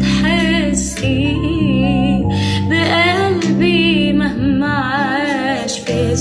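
A woman singing an Arabic song, drawing out long, wavering notes with vibrato and melisma over held low instrumental chords.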